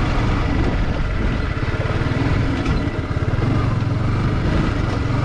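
Yamaha R15 V2's single-cylinder four-stroke engine running steadily with an even low pulse as the motorcycle rolls along a rough dirt track.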